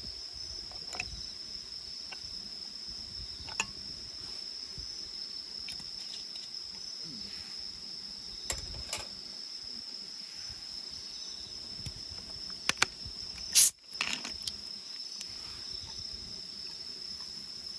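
Night insects chirping in a steady high-pitched chorus, with a few sharp clicks scattered through and one loud sharp snap about thirteen and a half seconds in.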